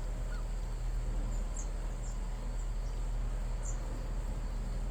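Steady low buzzing of native Korean honeybees flying around the entrance of a square hive, with a few short, high, falling chirps.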